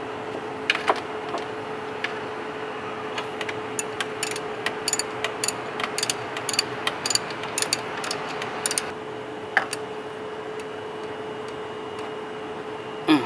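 Ratchet wrench clicking as the bolt of a new engine belt tensioner is tightened: a run of quick clicks, about three or four a second, for several seconds in the middle, with a few single clicks before and after. A steady faint hum runs underneath.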